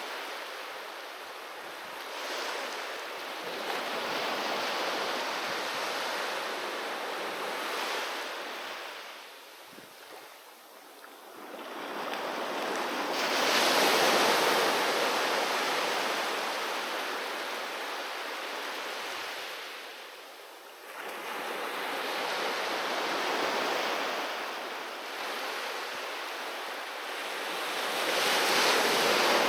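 Sea waves breaking and washing onto the shore in slow surges, each swelling into a broad hiss and then drawing back. There are two short lulls, about a third and two-thirds of the way through, and the loudest wave comes just before the middle.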